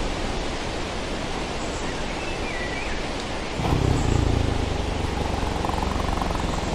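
Steady hiss of background noise. About three and a half seconds in, a big cat's low rumbling growl starts and carries on to the end.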